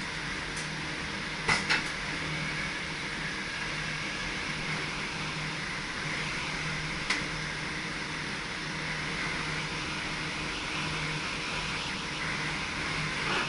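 Steady cab noise of an NS SGM Sprinter electric multiple unit: a constant low hum under a hiss, with two sharp clicks about a second and a half in and another single click near the middle.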